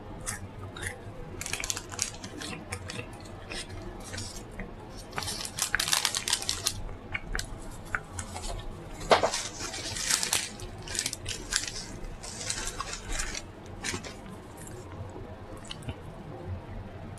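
Close-miked eating sounds: chewing and mouth clicks coming in irregular clusters, with a few sharper clicks and crackles, quieter in the last few seconds.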